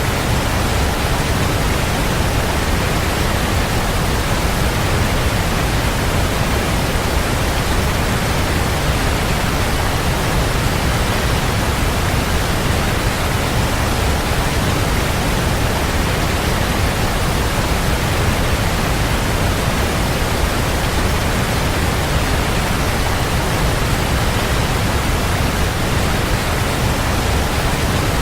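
Waterfall: a steady, unbroken rush of falling water, with a deep low rumble under an even hiss.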